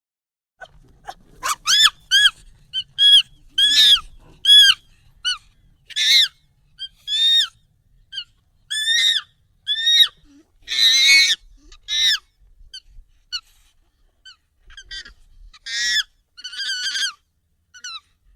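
Monkey calls, sped up and pitched up: a rapid series of short, high calls, each rising then falling in pitch, with a few harsher screeching calls about halfway through and near the end.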